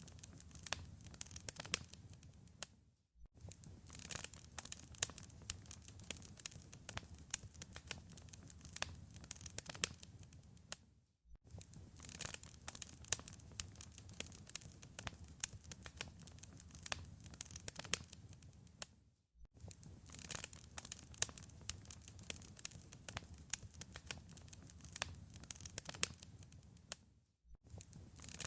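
Wood fire crackling in a fireplace: many sharp pops and snaps over a soft hiss. The sound drops out for a moment about every eight seconds, where the recording loops.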